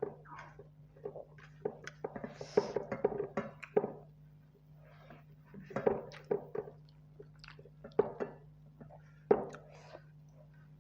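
Close-up mouth sounds of eating rice with spicy buffalo curry: irregular wet chewing and smacking clicks, busiest a couple of seconds in, over a steady low hum.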